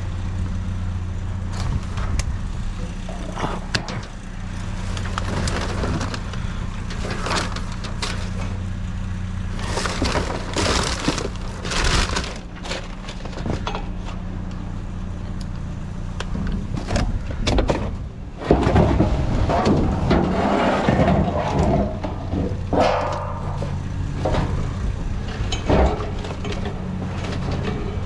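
Scrap metal being handled and pulled apart: repeated clanks, knocks and scraping over a steady low engine hum that fades out about halfway through.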